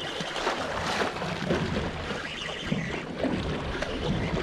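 Wind and water noise on an open fishing boat: a steady rushing haze with no distinct events.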